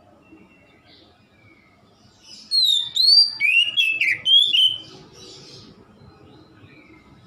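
Oriental magpie-robin (kacer) singing: soft chirps, then about two and a half seconds in a loud phrase of quick, sliding whistled notes lasting a couple of seconds, followed by quieter notes.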